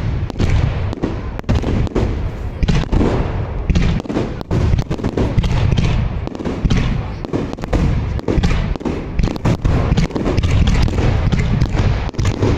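Aerial firework shells bursting in quick, overlapping succession: a continuous barrage of deep booms and sharp cracks.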